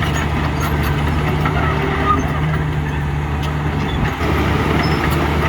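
Heavy diesel engine of earthmoving machinery running steadily at a low, even pitch, dipping briefly about four seconds in.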